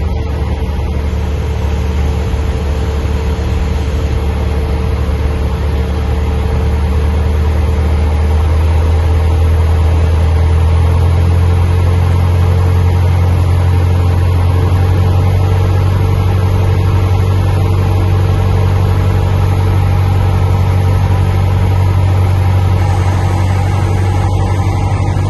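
Cessna 172's piston engine droning steadily in flight, growing a little louder over the first several seconds and then holding even.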